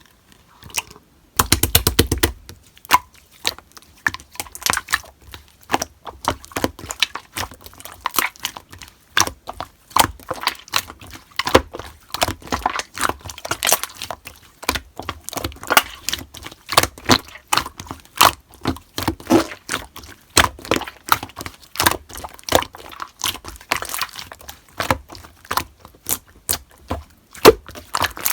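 Slime being squeezed and pressed by hand, making an irregular run of sharp clicks and pops, with a dense crackling burst about two seconds in.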